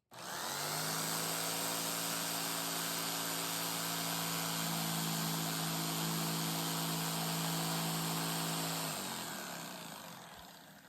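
Electric power tool motor starting suddenly and running at a steady speed for about nine seconds, then winding down in pitch as it is switched off.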